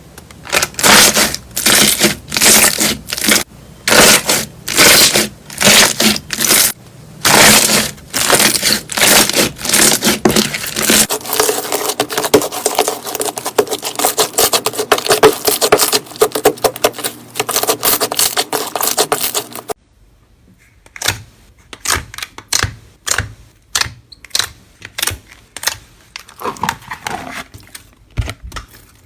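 Slime being squeezed and poked by hand, crackling and popping in loud bursts about once a second. It turns into a denser, continuous crackle partway through. Near two-thirds of the way it cuts to quieter, sharper clicks and pops.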